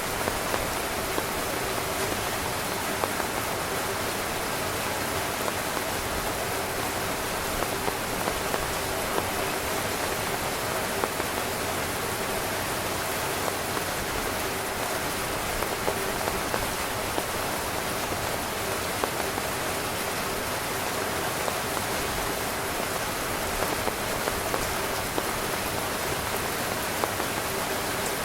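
Steady rain falling on a tent, an even hiss with scattered louder individual drop hits.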